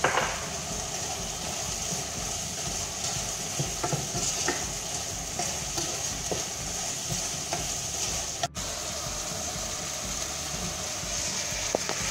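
Diced chicken and mixed vegetables sizzling in a pot as a wooden spoon stirs them, with a few light clicks and knocks of the spoon against the pot. The sound cuts out for an instant about eight and a half seconds in.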